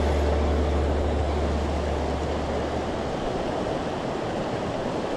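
Mountain stream rushing steadily over rocks, with a low rumble underneath that stops about three seconds in.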